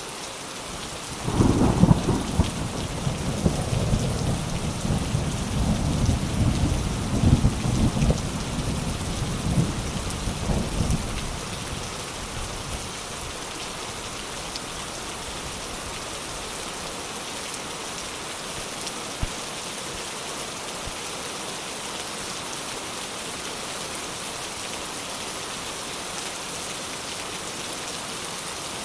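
Steady rain falling, with a thunderclap about a second in whose deep rumble rolls on in waves for some ten seconds before dying away, leaving the rain hissing on its own.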